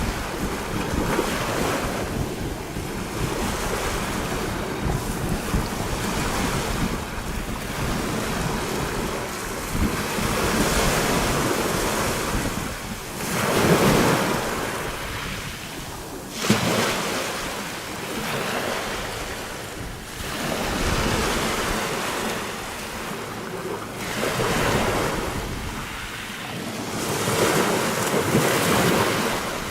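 Small sea waves washing in and breaking on small pebbles at the shoreline. The wash swells every two to three seconds, with the strongest breaks about halfway through and one sharp one just after. Wind rumbles on the microphone, mostly in the first half.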